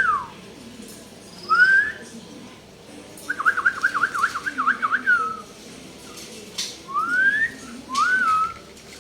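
Hill myna whistling in clear, separate phrases: rising whistled glides, a fast up-and-down warbling run about three seconds in, then two more rising whistles near the end.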